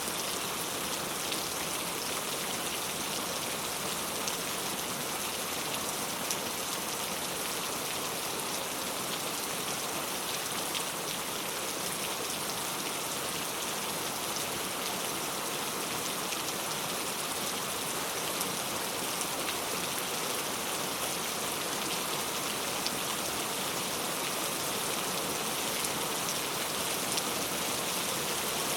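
Heavy rain falling steadily: a dense, even hiss of rain with fine scattered drop ticks.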